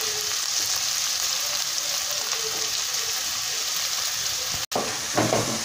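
Chopped onions sizzling in hot coconut oil in a nonstick kadai, a steady, even hiss.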